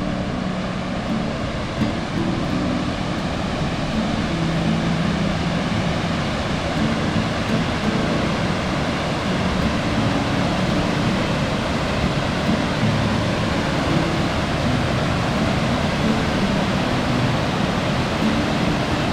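Steady rush of water from Uogaeri Falls, a wide, sloping cascade about 7 m high, falling over rock.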